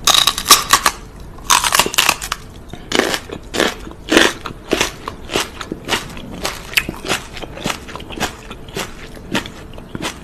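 Crunchy biting and chewing sounds from a person's mouth: a run of crisp crunches, loudest in the first couple of seconds, then coming steadily about three a second.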